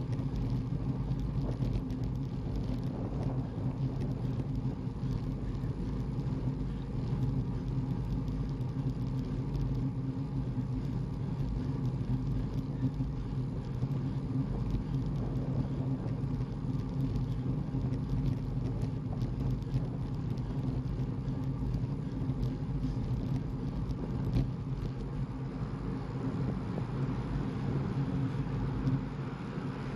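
Steady drone and rumble of a car driving at an even speed, with no change in pitch or level.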